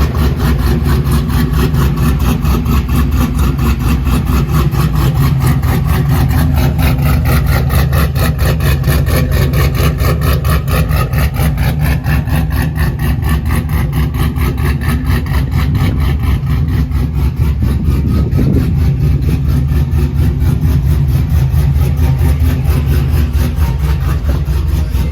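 A truck's 4.8-litre V8 with a BTR stage 3 truck cam idling through Spintech mufflers, with a steady, choppy cam lope.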